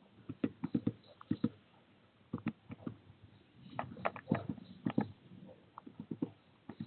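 Irregular taps and knocks of a bird moving about on a wire feeder close to the microphone, coming in short clusters.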